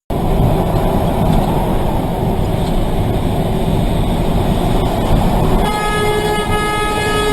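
Heavy, loud rumbling vehicle noise, then a loud horn with several steady tones sounds about five and a half seconds in and keeps blowing.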